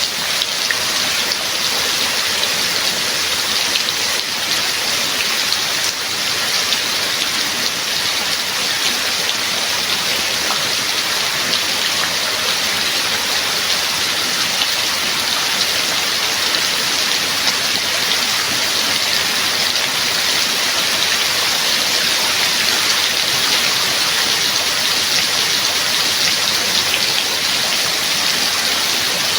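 Steady rainfall: an even, unbroken hiss of many drops falling.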